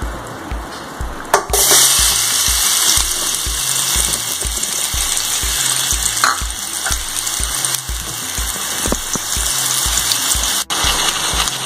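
Chilli- and turmeric-marinated prawns hitting hot cooking oil in a pan, bursting into a loud sizzle about a second and a half in and then frying steadily. Background music with a steady beat runs underneath.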